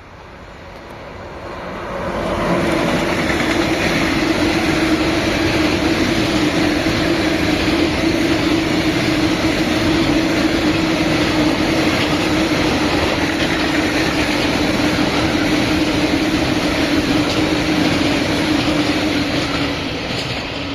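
A train passing close by. Its rolling noise swells over the first two seconds, then holds loud and steady with a low hum running underneath.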